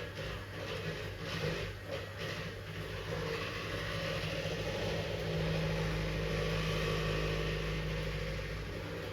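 Wood fire in a fireplace crackling, with a few sharp pops in the first couple of seconds over a steady low hum. A low rumble swells about three seconds in and holds.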